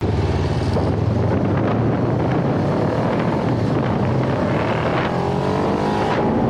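Kawasaki Ninja 500R parallel-twin engine running under way, with wind buffeting the microphone. The engine pitch rises over the last couple of seconds as the bike accelerates.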